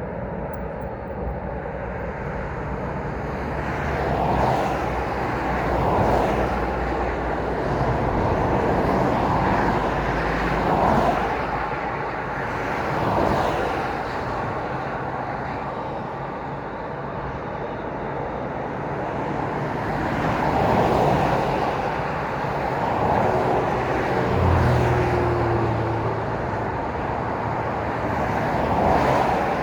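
Road traffic at night: vehicles pass one after another, each a swell of tyre and engine noise that rises and fades, about seven passes in all, over a steady low engine hum.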